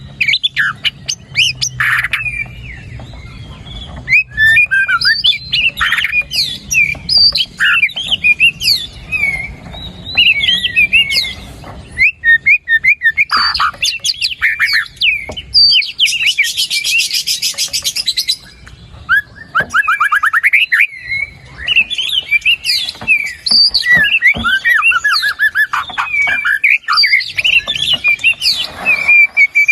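White-rumped shama (murai batu) singing a long, varied song of fast whistles, slurred chirps and harsh notes, rich in mimicked phrases (isian). A little past the middle comes a dense buzzing trill lasting about two seconds.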